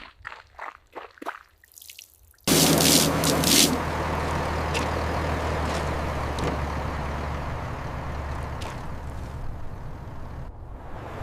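A few scattered water drips, then about two and a half seconds in a steady spray of water starts, with a low motor hum beneath it, as from a pressure washer at work.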